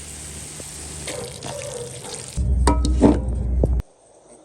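Running water, like a tap running into a sink, followed about two seconds in by a louder stretch of low rumbling noise that cuts off suddenly near the end.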